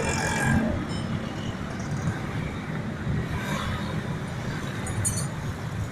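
Steady street traffic rumble, with a few brief, sharp, high clinks about five seconds in.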